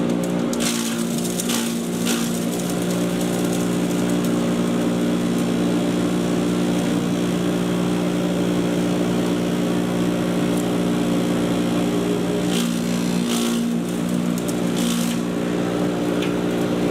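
Patriot 1.5-HP electric chipper shredder running with a steady motor hum. It has brief bursts of chipping, a few near the start and a few more in the last third.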